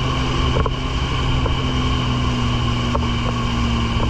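Jet ski engine running steadily under way, with wind noise on the microphone and a few short knocks.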